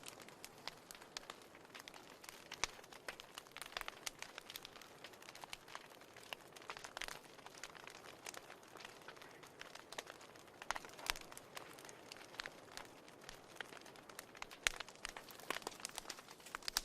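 Wood fire burning in a fireplace, crackling: frequent sharp pops and snaps of varying loudness over a soft hiss.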